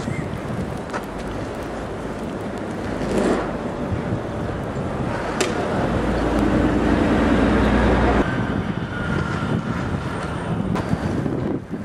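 City street traffic in a blizzard with wind buffeting the microphone, swelling into a louder low rumble for about two seconds around six seconds in.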